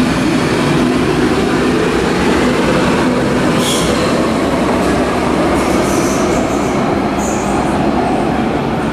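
Munich U-Bahn train running on the U8 line, with a steady loud rumble of wheels and motors. Brief high wheel squeals come about four seconds in and again around six to seven seconds.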